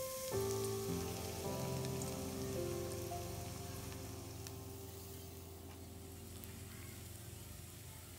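Minced garlic sizzling in hot oil in a wok, a steady hiss with scattered ticks, under background music of slow sustained chords.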